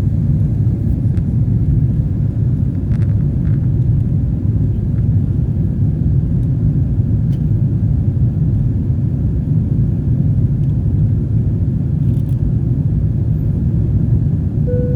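Steady low rumble of a Boeing 777-300ER's GE90 engines and airflow in flight after takeoff, heard from the passenger cabin. A few faint clicks and, at the very end, a short tone.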